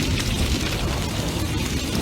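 Big bonfire burning intensely: a steady low rumble of flames, thick with fast, irregular crackling and popping of burning wood.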